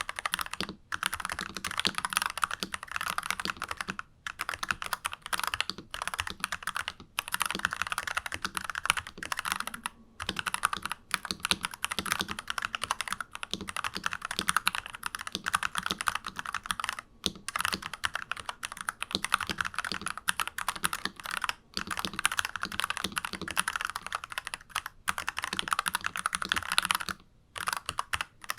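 Fast continuous typing on a stock NuPhy Halo 96 mechanical keyboard with unlubed Alpaca linear switches: dense streams of keystroke clacks broken by short pauses every few seconds.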